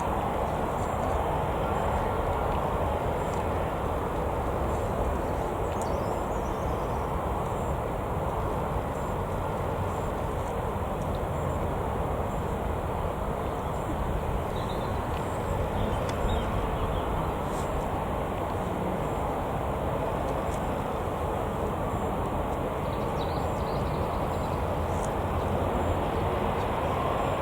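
Jet airliner engines running, a steady rushing noise with no distinct tones that swells slightly near the end.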